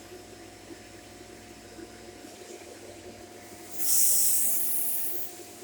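Shark corded vacuum cleaner running with a steady, fairly quiet motor hum. About two-thirds of the way in, a loud high hiss of rushing air comes in for a second and a half and then dies away.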